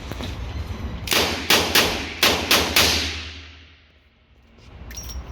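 A quick string of about six handgun shots at an indoor shooting range, fired within about two seconds.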